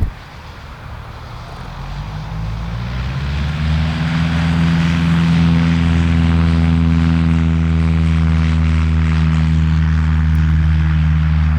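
Light propeller aircraft's piston engine and propeller, growing louder over the first few seconds with the pitch rising slightly, then holding a steady loud drone.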